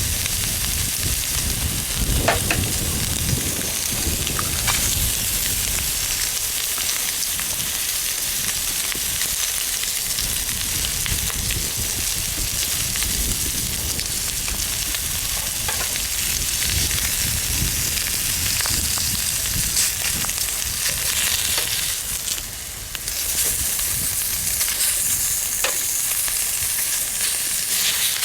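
Bacon and eggs sizzling in a pan over a wood fire: a steady spitting hiss with a few small pops, the sizzle dipping briefly near the end.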